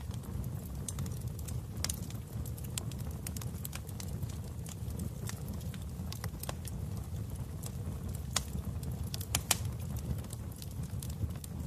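Wood fire in a fireplace crackling: irregular sharp pops and snaps over a steady low rumble of the flames, with a few louder pops near the end.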